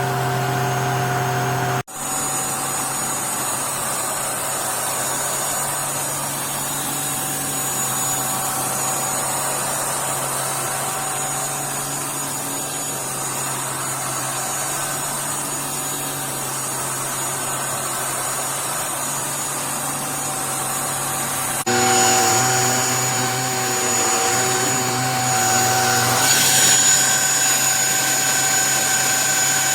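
Hychika handheld mattress vacuum cleaner running steadily: a motor hum with a high whine. It breaks off for an instant about two seconds in and gets louder, with extra tones, from about 22 seconds.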